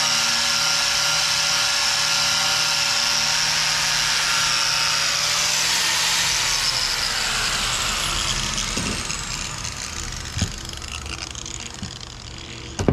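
Angle grinder fitted with a stiff wire cup brush, running and scouring old undercoat off the machine's metal. About six seconds in it is switched off and winds down, its pitch falling as it slows, with a couple of sharp knocks near the end.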